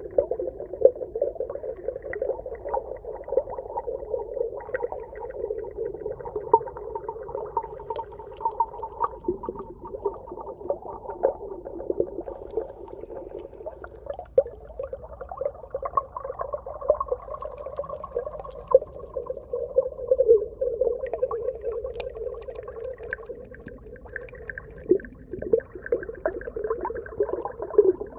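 Underwater ambience: a steady, dense crackle of small clicks over a low, wavering drone.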